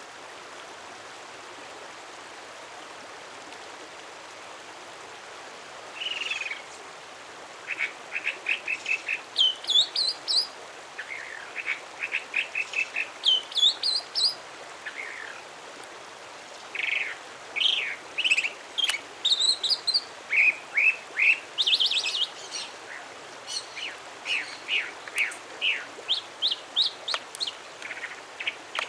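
A songbird singing over a steady background hiss. From about six seconds in come repeated phrases, each a quick run of short notes or slurred whistles.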